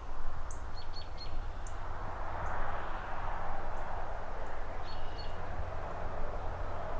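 Outdoor city ambience: a steady low rumble of distant traffic under a soft rushing hiss of trees and passing cars that swells and fades twice. A bird repeats a short high chirp through the first half, and another gives a brief whistled call about a second in and again near the end.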